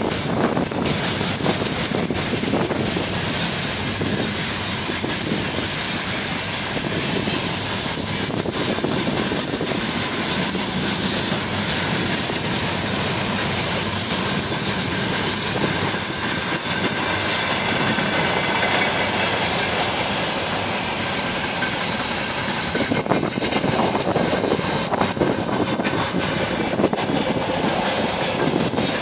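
Freight train of open gondola wagons and tank cars rolling past, a steady rumble of wheels on rail with clacking over the rail joints and a thin, high wheel squeal.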